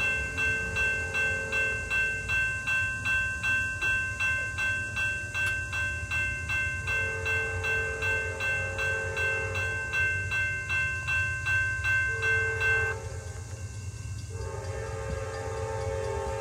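Railroad crossing bell ringing about twice a second and stopping near the end, while a diesel locomotive's air horn sounds the grade-crossing signal: a long blast ending early on, a long blast, a short one, then a final long blast held. A low engine rumble runs underneath.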